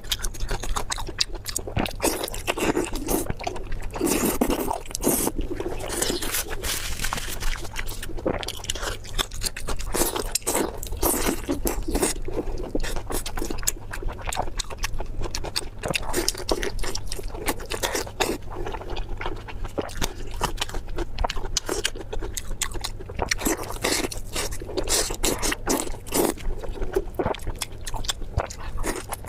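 Close-miked eating sounds: a continuous run of wet chewing, crunching and mouth smacks, made up of many short clicks.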